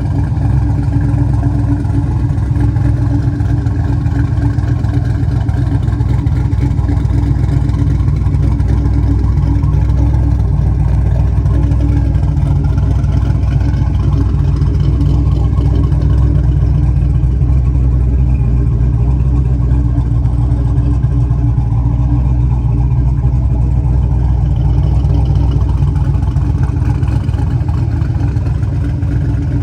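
Twin-turbo 5.3 LS V8 in a 1971 Chevrolet C-10 idling steadily.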